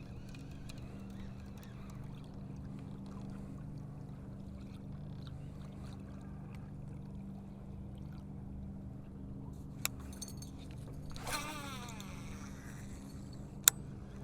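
Boat motor running steadily with a low hum. Two sharp clicks near the end, and a brief sound with falling pitch about eleven seconds in.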